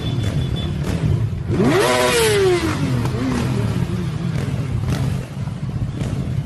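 Motorcycle engine revving up sharply and dropping back, over a steady low engine and traffic rumble.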